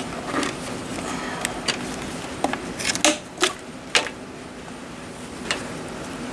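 Irregular sharp clicks and light knocks, about eight of them, from hands working small plastic parts on a truck's turn-signal housing.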